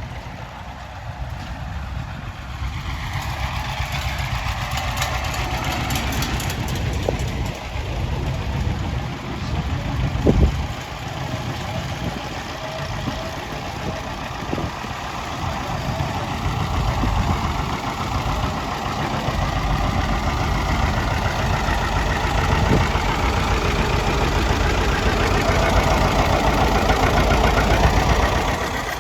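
Tractor engines running as tractors drive slowly past, with a short loud knock about ten seconds in. The engine sound grows louder toward the end as one passes close.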